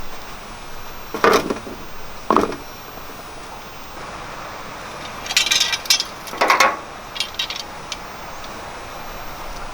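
Handling sounds over a steady background hiss: a few short knocks and, in the second half, clusters of light metallic clinks like utensils or cookware being handled.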